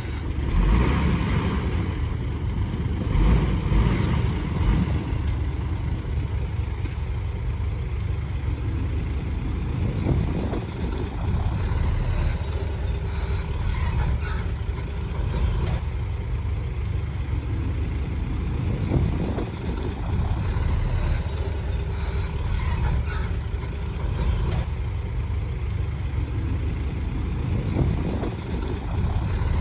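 Heavy diesel machinery engine running steadily, with a few brief knocks and clanks scattered through the middle.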